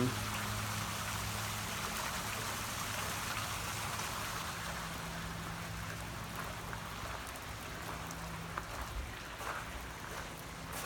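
Small outdoor fountain, water splashing and trickling steadily.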